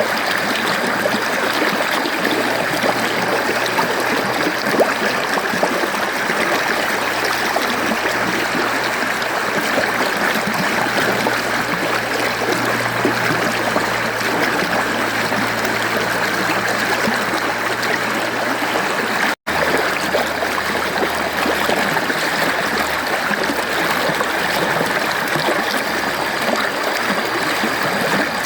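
Mountain stream flowing and burbling steadily over rocks, with a split-second dropout about two-thirds of the way through.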